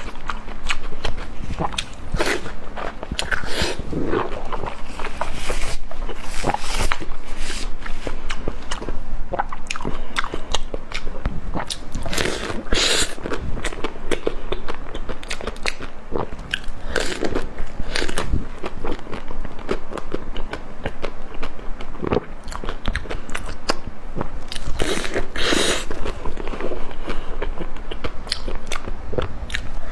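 Close-miked eating: repeated bites and crunchy chewing, a dense run of irregular crackling crunches with a few louder bursts of bites.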